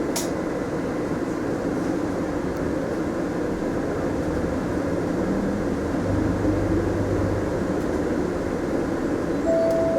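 Mitsubishi Fuso Aerostar city bus heard from inside the cabin: a steady low drone of diesel engine and road noise. There is a short click near the start and a brief tone near the end.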